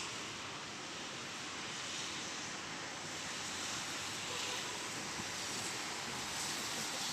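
Rain falling steadily, an even wash of noise with no separate drops standing out.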